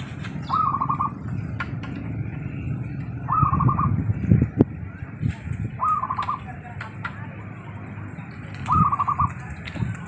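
Zebra dove (perkutut) cooing: four short phrases of quick staccato coos, about one every three seconds, over low rustling.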